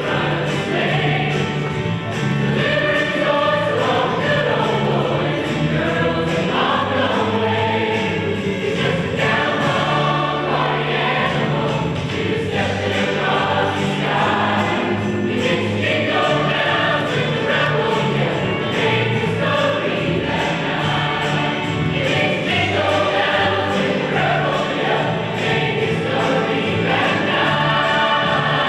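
A choir singing continuously.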